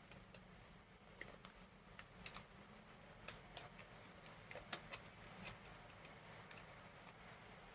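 Faint, irregular small clicks and crackles of origami paper being handled and creased by hand, about a dozen spread unevenly over low room hum.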